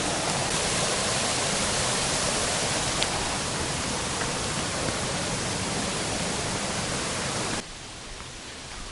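Steady rush of a waterfall: an even wash of falling water that drops sharply in level near the end.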